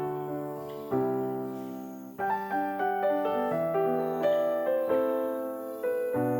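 Background piano music: a slow piece of struck, decaying chords and melody notes, the chord changing about once a second.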